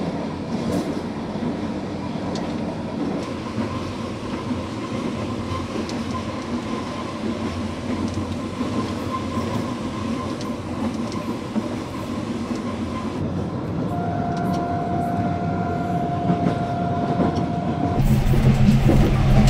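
Passenger train running at speed, its wheels clattering over the rail joints, heard through an open carriage doorway. A thin steady tone sounds for a few seconds near the end, and in the last second and a half the sound turns louder and deeper, with sharp clanks.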